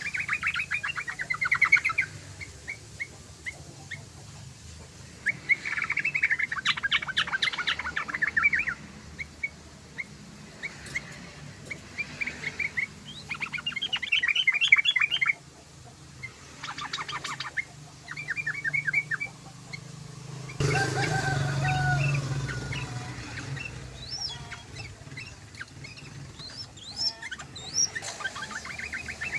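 Yellow-vented bulbul (trucukan) singing: repeated bursts of rapid bubbling, chattering notes with short pauses between phrases. About two-thirds of the way in, a louder rushing noise lasts a few seconds.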